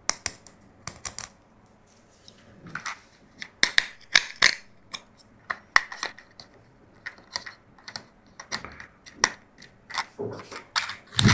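Plastic toys being handled: an irregular run of sharp clicks and taps, a few a second, with light rustling between them.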